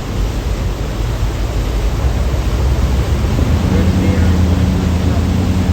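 Thames Clipper river-bus catamaran under way: a steady rush of wind and water over a low engine drone, the engine hum growing stronger about halfway through.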